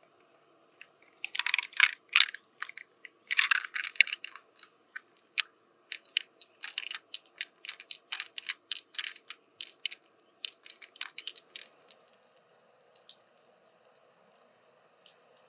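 Hard clam shell being handled and pried at: clusters of crunches in the first few seconds, then a run of sharp clicks that thins out after about ten seconds.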